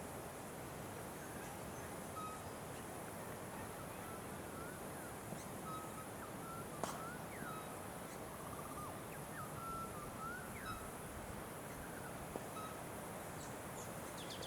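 Outdoor ambience: a steady background hiss with scattered short bird chirps, and one sharp click about seven seconds in.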